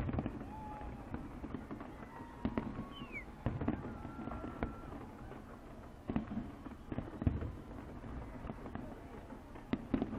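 Large fireworks display going off: irregular sharp bangs roughly every second, over a continuous low rumble and crackle of shells bursting.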